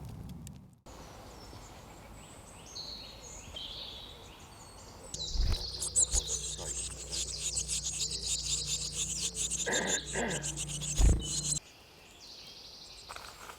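Woodland birds singing, short high chirps and trills. In the middle comes a louder stretch of dense, high-pitched bird calling over a steady low hum, with a few sharp thumps.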